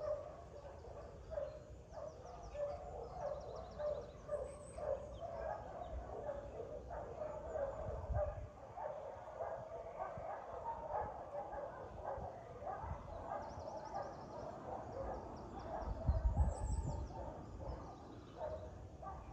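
Many kennel dogs barking at once, the barks overlapping into a continuous chorus.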